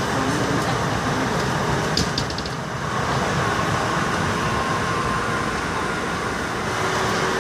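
Steady rumble of a moving passenger train heard from inside the carriage, wheels running on the track, with a brief cluster of clicks about two seconds in and a faint steady hum coming in around three seconds.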